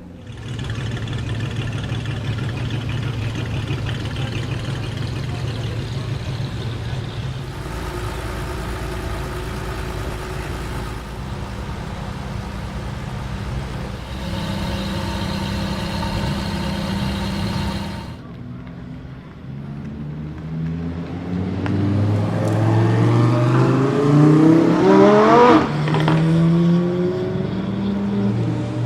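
New Lancia Stratos's V8 engine heard through its exhaust in several short cuts, running steadily at first. Near the end it accelerates hard, its pitch climbing as the revs rise.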